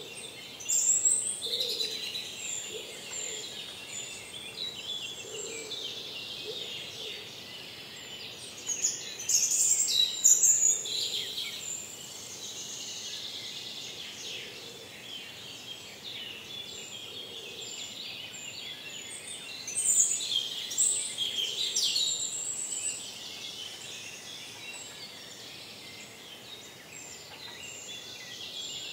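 Forest birds singing in the dawn chorus over a steady background hiss. Three louder bursts of song come about a second in, around nine to eleven seconds, and around twenty seconds, while a thin high note repeats throughout.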